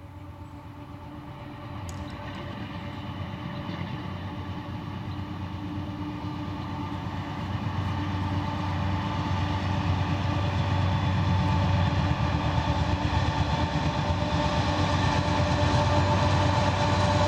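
Canadian Pacific freight train's diesel locomotives approaching, their engine rumble and steady drone growing louder throughout.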